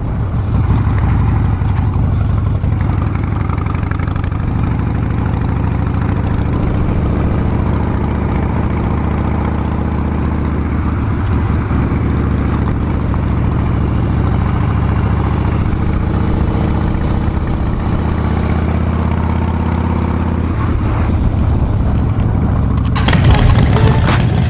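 Harley-Davidson Dyna Street Bob's V-twin engine running steadily. A louder sound cuts in near the end.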